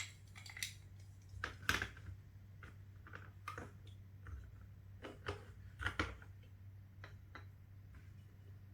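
Plastic Lego Duplo bricks clicking and knocking as they are handled and pressed together, a dozen or so irregular clicks, the loudest right at the start and at about a second and a half in.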